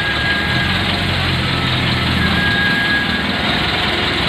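A motor vehicle engine running steadily, with a faint thin high tone at the start and again about two seconds in.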